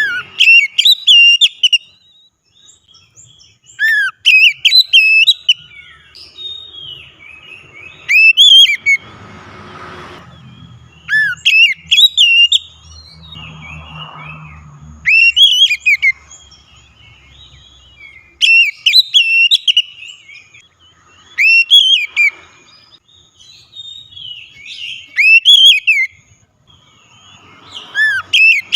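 Oriental magpie-robin (kacer) singing loud, clear whistled phrases of quick sweeping notes, one phrase about every three to four seconds.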